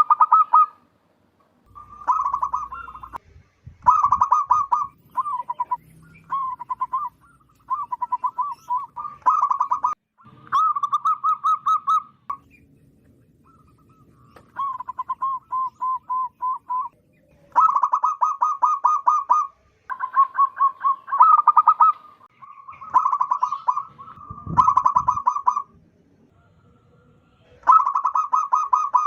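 Zebra dove (perkutut) cooing loudly: repeated phrases of rapid pulsed coos, each about one to two seconds long, with short pauses between and a longer pause midway.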